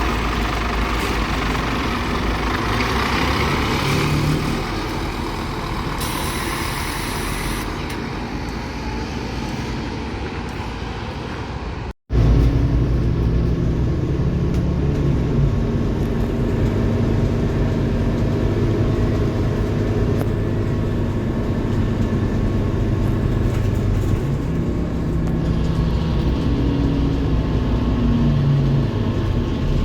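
Scania K230UB city bus's five-cylinder diesel engine running, with a short hiss about six seconds in. The sound cuts out for a moment near the middle, then the engine drone continues, its pitch rising and falling.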